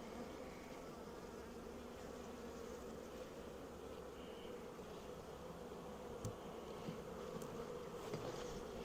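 Honeybee colony in an opened Layens hive, buzzing with a steady hum. A couple of faint knocks come about six and seven seconds in.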